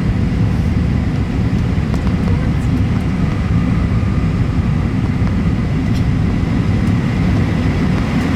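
Steady low roar of an Airbus A320's cabin noise on its landing approach, engine and airflow noise heard from inside the passenger cabin, with a faint steady whine above it.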